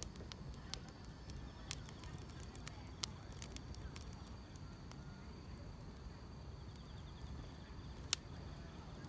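Firewood burning with scattered sharp crackles and pops over a low rumble, the loudest pop about eight seconds in. Grass insects chirp steadily in the background.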